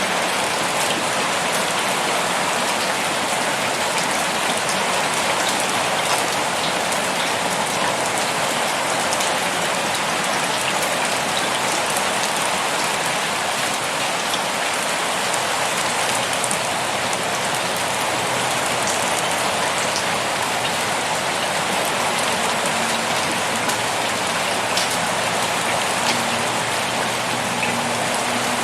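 Heavy rain pouring steadily, a dense even hiss with scattered sharper ticks of single drops striking a surface.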